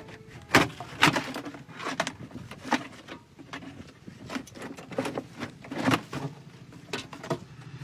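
A string of irregular, sharp knocks and clatters, about a dozen, some of them loud, over a faint low hum.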